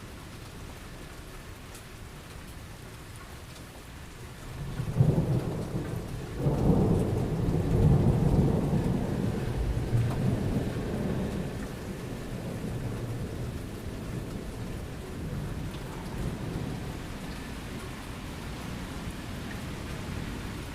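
Steady rain with a clap of thunder about four seconds in that rolls on in a second, louder surge and slowly dies away into a lingering rumble under the rain.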